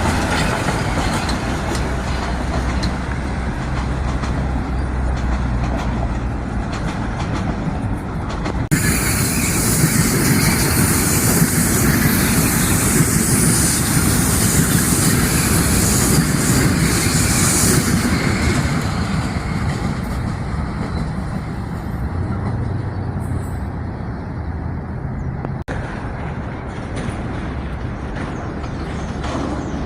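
Metro-North commuter trains running on the tracks: a continuous rumble of wheels and running gear with a low steady hum. The sound changes abruptly about 9 s and 26 s in, and is louder with more hiss from about 9 to 18 s.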